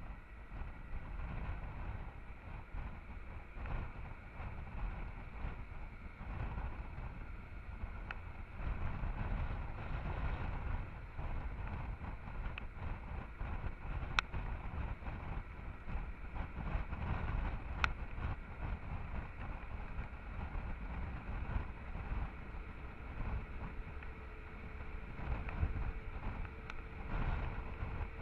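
Honda Transalp XL650's V-twin engine running under way, a low rumble mixed with wind buffeting on the microphone. Two sharp clicks about halfway through.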